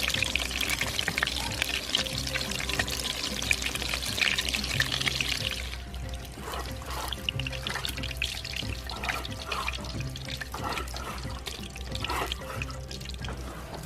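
Background music with a steady low beat, over water running for about the first six seconds, which then stops.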